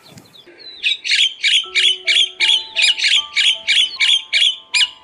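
Myna calling: a run of about a dozen quick, evenly spaced calls, about three a second, beginning about a second in, over soft background music.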